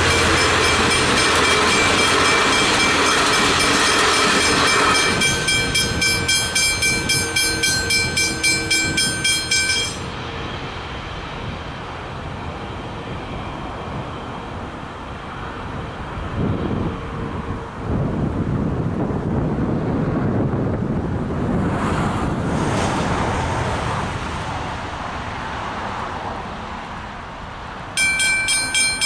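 A train runs through a level crossing while the crossing's Westinghouse Hybrid bell rings. The train noise drops away about five seconds in, and the bell keeps ringing at about two strikes a second until it stops about ten seconds in. After a quieter stretch of steady background noise, the bell starts ringing again suddenly near the end.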